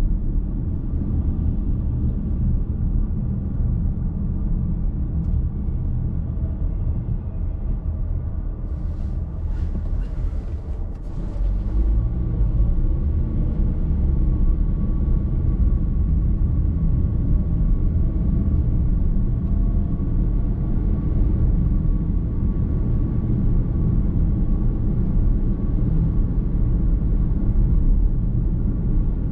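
Car driving on a road, heard from inside the cabin: a steady low road and tyre rumble. There is a brief hiss about nine to eleven seconds in, after which the rumble is a little louder.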